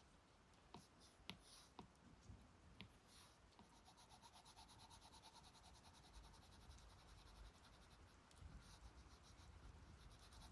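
Faint stylus scratching on an iPad screen: a few light taps in the first seconds, then quick, rhythmic back-and-forth strokes, over a low steady rumble.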